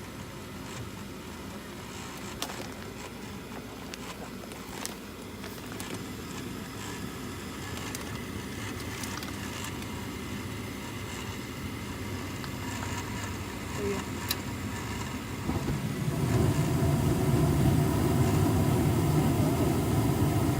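Carrier gas furnace running after startup: a steady burner and inducer fan noise with a few light ticks, then about sixteen seconds in a deeper, louder running sound comes in and stays, typical of the circulating blower starting once the heat exchanger has warmed.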